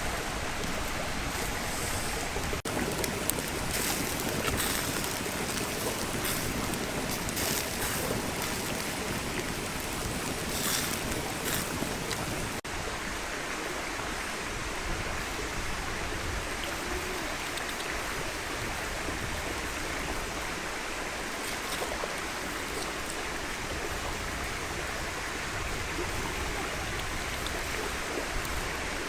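Steady rushing of flowing stream water, with a few brief crackles or splashes in the first half.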